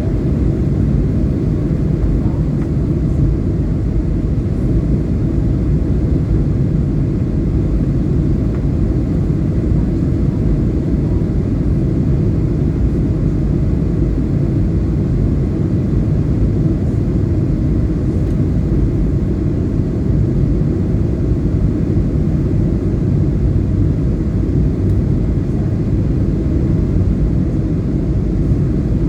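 Steady low rumble of an airliner in flight, heard from inside the passenger cabin: engine and airflow noise at an even level.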